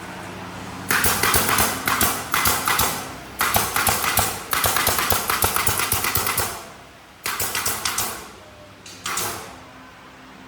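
Loud bursts of rapid mechanical rattling and clicking from a workshop tool, over a steady machine hum. The rattling runs for several seconds, stops, then comes back twice briefly near the end.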